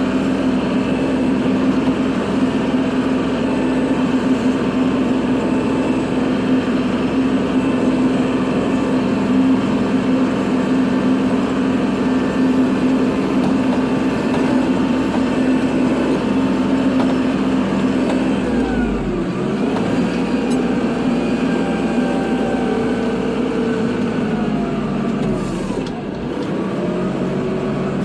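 Kubota tractor's diesel engine running steadily under load while plowing snow. In the last ten seconds its pitch dips and rises again as the engine speed changes.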